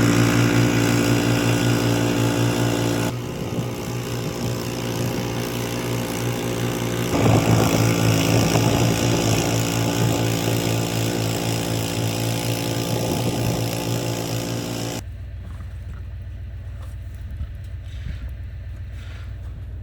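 Gas snowblower engine running loud and close, with a steady buzzing note whose level dips a few seconds in and swells again a few seconds later. About fifteen seconds in it cuts off abruptly to a much quieter low rumble.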